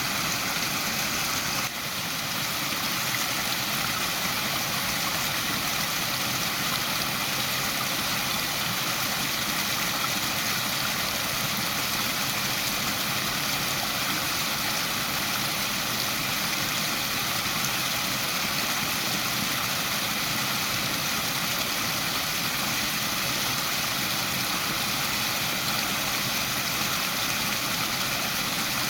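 Waterfall rushing steadily, an even wash of falling water, with a brief dip in level about two seconds in.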